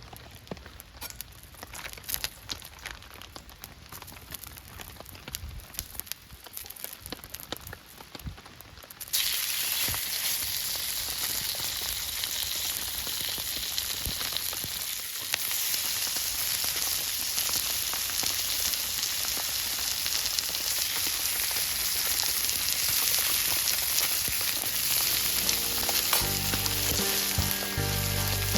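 Food frying in a hot paella pan: after scattered light clicks and taps, a steady sizzle suddenly starts about nine seconds in, as the food goes into the hot oil, and keeps going.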